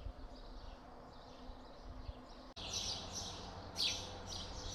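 Small birds chirping, faint at first, then louder and busier from about halfway through.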